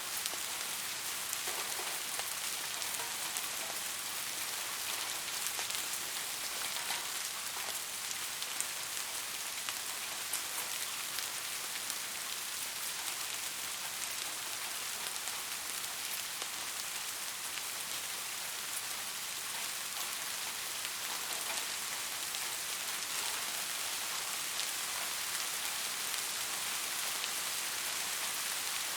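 Steady rain falling, a continuous hiss with many small drop ticks and no other sounds over it.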